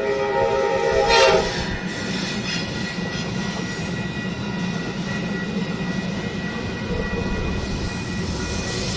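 A train horn sounds a chord of several notes and cuts off about a second in. After it comes the steady rumble of the train running by, with a thin, steady high whine over it.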